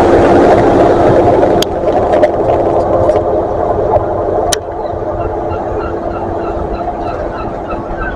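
Train passing and pulling away: a loud rushing rumble with a steady engine note that fades, broken by a couple of sharp clicks. About halfway in, birds start calling in quick repeated notes as the train recedes.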